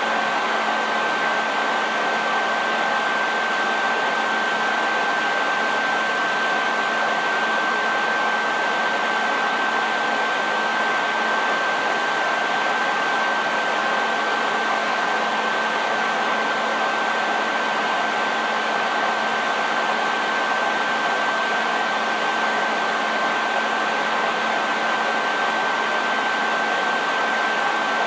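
Hair dryer running steadily: a constant rush of blown air with a thin, steady whine above it and a faint low hum beneath.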